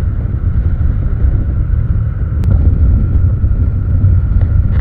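Wind rushing over the microphone of a motorcycle cruising at highway speed, a steady low rumble mixed with engine and road noise.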